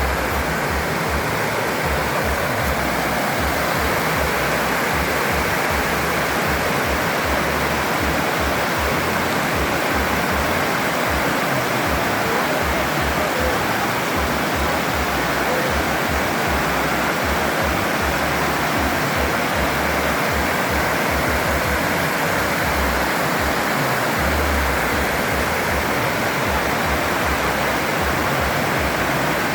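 Waterfall and rocky creek water rushing steadily, an even rush of noise with no change in level.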